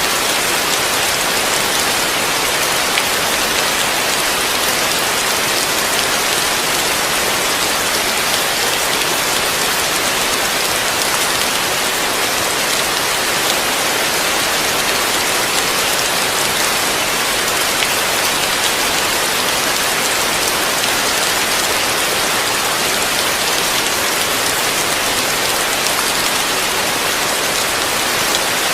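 Heavy rain falling steadily on a roof, an even, dense hiss with no thunder.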